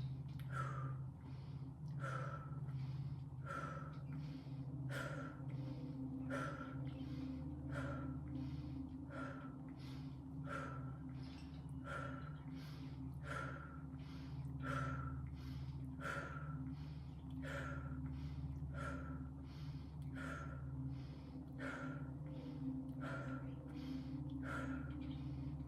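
A woman doing rapid rhythmic breathwork: short, forceful breaths repeating at a quick, even pace, with passive inhales and forced exhales. A steady low drone of meditation music runs underneath.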